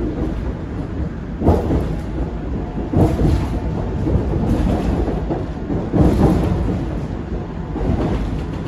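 Seoul Subway Line 7 7000-series electric train running, heard from inside the car: a steady low rumble with heavy thuds about a second and a half in, at three seconds and at six seconds as the wheels pass over track joints.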